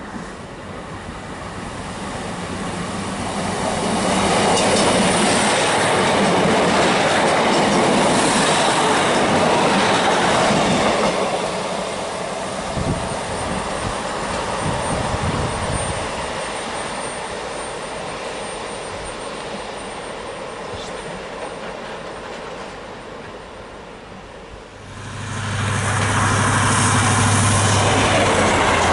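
A diesel multiple unit approaching and passing close, its wheels running on the rails, then fading as it moves away. About 25 s in, an HST power car passes close by, and it becomes sharply louder with a steady low diesel engine drone over the wheel noise.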